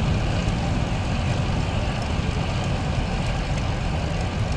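Steady rush of wind and road noise on a bicycle-mounted camera's microphone while riding along at cruising speed.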